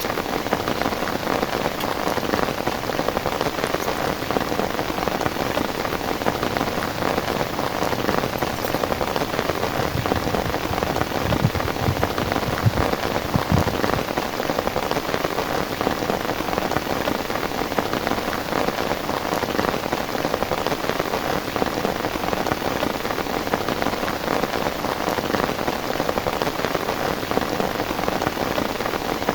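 Heavy rain falling steadily, the drops hitting a surface in a dense, even hiss. A few dull low thumps come about halfway through.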